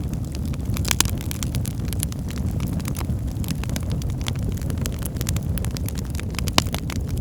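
Wood fire burning in a fireplace: a steady low rumble of the flames with irregular sharp crackles and pops, the loudest about a second in and again near the end.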